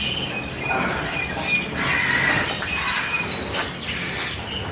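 Many caged small birds chirping and trilling together, a dense, continuous chatter of high calls.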